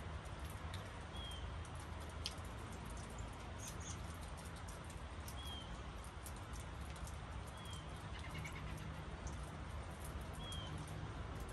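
Steady rain falling, with many small drips ticking close by and a low steady rumble underneath. A bird gives a short high chirp four times, every two to three seconds.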